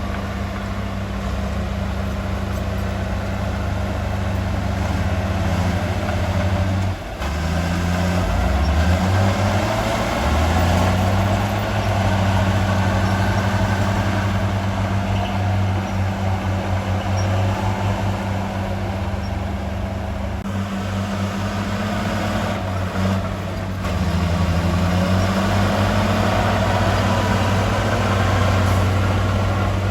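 Heavy diesel machinery engine running steadily. It dips briefly about seven seconds in and shifts pitch a few times as the engine speed changes.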